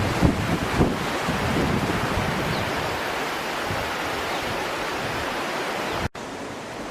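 Steady rushing water of river rapids, with wind buffeting the microphone in the first second or so. There is a brief dropout about six seconds in, and the rushing is quieter after it.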